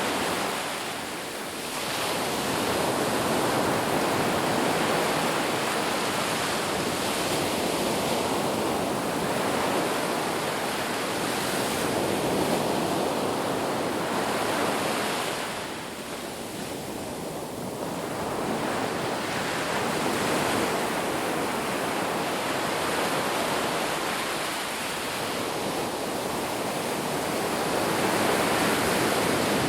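Sea waves breaking and washing on the shore in a continuous surf rush, swelling and easing, with lulls about a second in, at about the middle, and again later.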